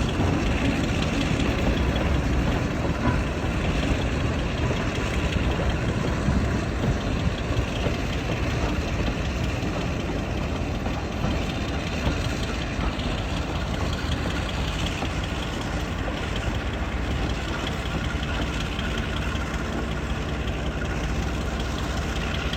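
Diesel engine idling steadily, growing slightly quieter.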